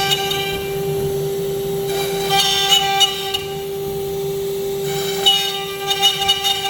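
CNC router spindle running at high speed with a steady high whine, and a rasping cutting noise that comes and goes, strongest about two and a half seconds in and again after five seconds.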